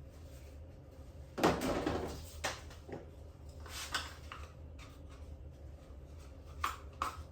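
Handling sounds of small plastic taxidermy ear forms being picked up and moved: a few scattered knocks and clicks, the loudest about one and a half seconds in.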